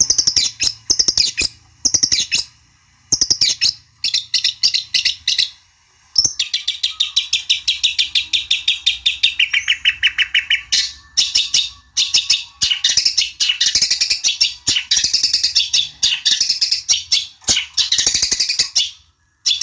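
Long-tailed shrike (cendet) song: loud, rapid chattering phrases made of fast repeated notes. The first few seconds come in short bursts with brief pauses; after that a long, nearly unbroken run of quick notes follows. This is agitated song used as a lure to provoke a rival shrike to answer.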